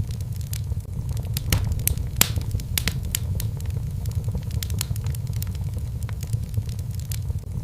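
Wood fire burning in a fireplace: a steady low rumble of the flames with irregular sharp crackles and pops from the logs, a few of them louder, about 1.5 and 2.3 seconds in.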